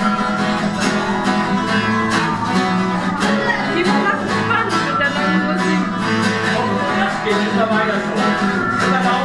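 Acoustic guitar strummed in a lively tune with a steady beat.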